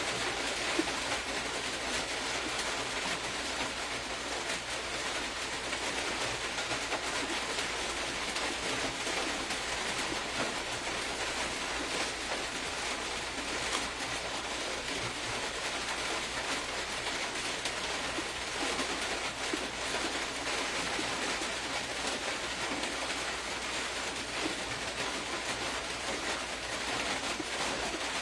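Steady, even hissing noise without breaks.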